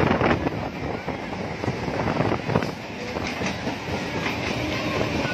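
Suburban electric local train (EMU) passing close by, its wheels clattering over the rails in a dense run of irregular clicks and knocks over a steady rumble.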